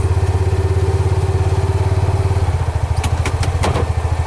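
Vehicle engine idling with a steady, fast low pulsing, and a few sharp clicks about three seconds in.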